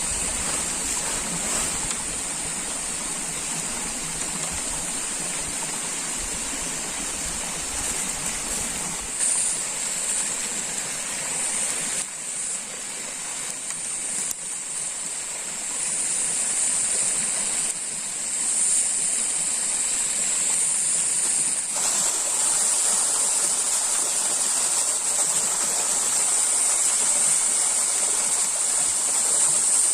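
Water flowing in a stream, a steady rushing noise, with a steady high-pitched buzz over it that swells and fades a little at times.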